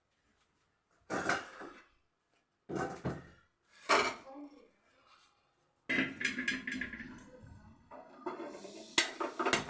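Metal cookware clattering: a few separate clanks of pots and utensils being handled and set down, then a busier run of quick metallic clinks and knocks in the last few seconds.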